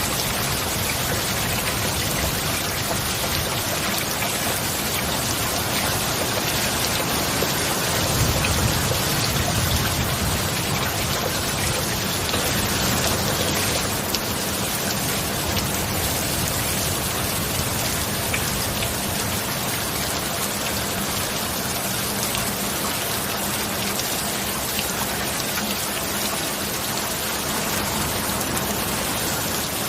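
Heavy rain falling steadily, an even hiss of many drops, with a slight low swell about eight seconds in.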